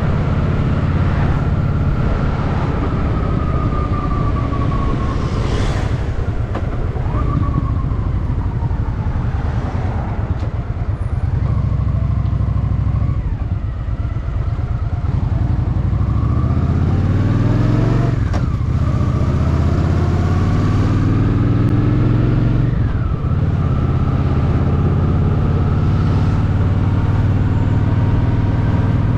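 Honda Shadow VT750's V-twin engine running on the move, heard from the rider's seat. It revs up under acceleration about fifteen seconds in, shifts gear, and pulls up again.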